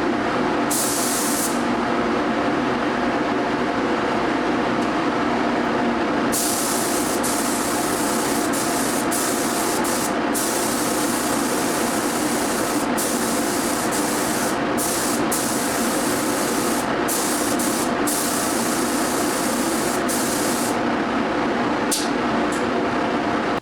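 Paint spray gun hissing in repeated bursts as the trigger is pulled and released, laying on 2K urethane primer. A steady machine hum runs underneath.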